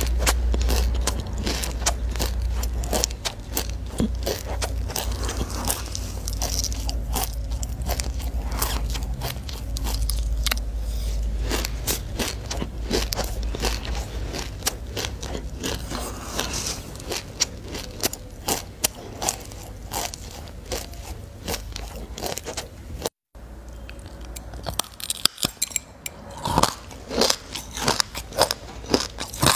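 Close-miked chewing of a mouthful of black sesame seeds: a dense crackle of tiny crunches. After a brief break in the sound about two-thirds of the way through, it turns to separate crisp, crunchy bites into a clump of the seeds.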